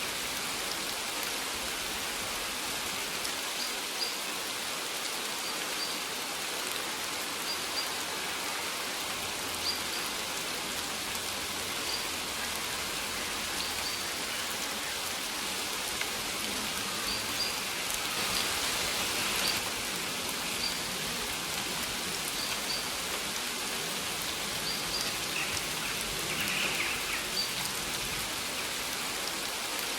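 Steady rain falling and pattering on surfaces, with short, high bird chirps now and then.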